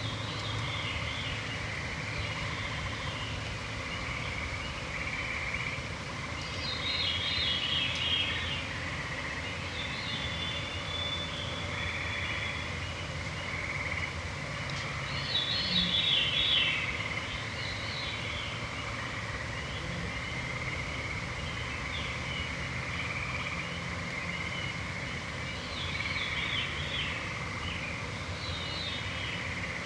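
Evening forest chorus: songbirds sing short, bright phrases every several seconds over a steady, unbroken trilling chorus and a low ambient hum.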